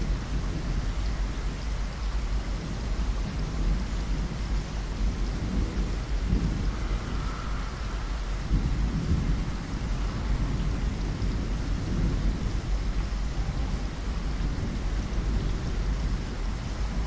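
Steady rain falling, with low rumbles of thunder rolling through, strongest in the middle of the stretch.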